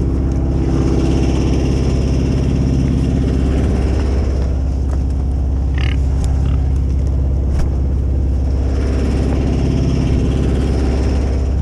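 A motor or engine running steadily with a constant low hum.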